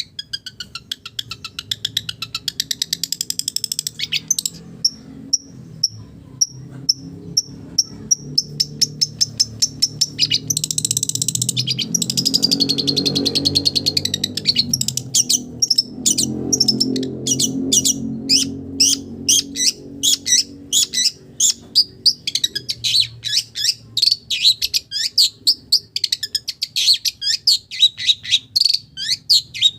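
Long-tailed shrike (cendet) singing long, rapid runs of short, high repeated notes and downward-sweeping chips, several a second, a song that takes in mimicked calls of other birds. A low hum swells under the song through the middle.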